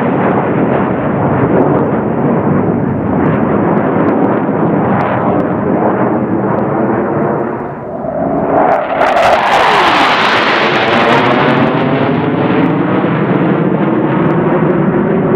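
Blue Angels F/A-18 Hornet jet engines rumbling in the distance. About nine seconds in, a jet passes close: a louder, brighter rush with a falling pitch, followed by a sweeping, phasing sound as it moves away.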